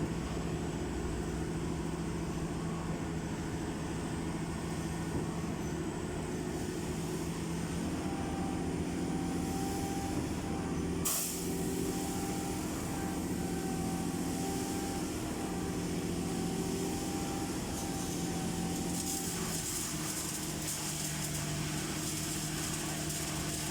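Heavy diesel engine running steadily, with a sharp click about eleven seconds in and a hiss in the last few seconds.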